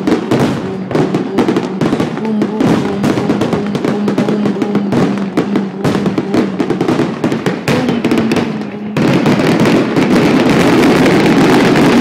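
Fireworks display in a rapid barrage of bangs and crackles, over a steady droning tone. About nine seconds in, it turns into one continuous dense crackle.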